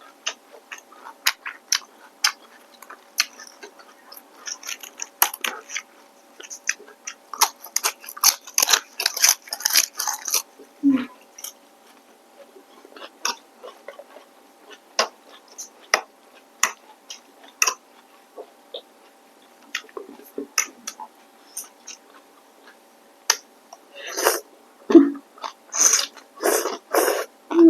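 Close-up eating sounds of rice noodles and shrimp being chewed, with many short wet mouth clicks and smacks. The chewing is busiest about a third of the way in and again near the end.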